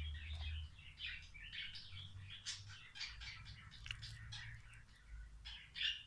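Small pet birds chirping in quick, busy runs, with light clicks and crunching from a seed stick being crumbled into loose seed.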